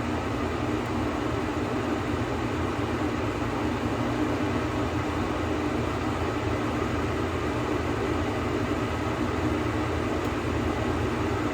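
A steady, unchanging mechanical hum and whoosh of background noise, like a fan or ventilation running.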